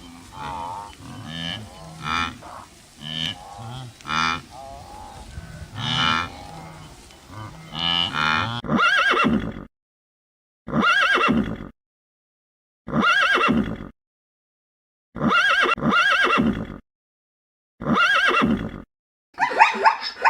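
Farm animals calling: a run of overlapping pitched calls, then five separate calls of about a second each with silence between, and a quicker burst of different calls starting near the end.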